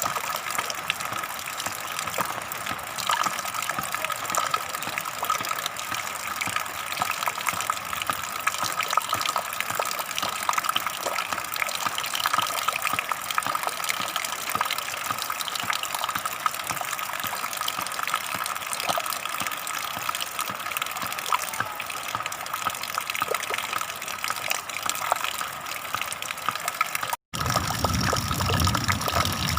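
Water flowing and gushing steadily. About 27 s in it cuts out for an instant and resumes with a deeper, fuller rush.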